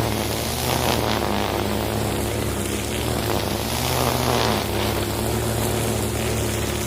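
Husqvarna 541RS two-stroke brush cutter running steadily at high speed while cutting through plantation undergrowth, its note swelling slightly about a second in and again around four seconds in.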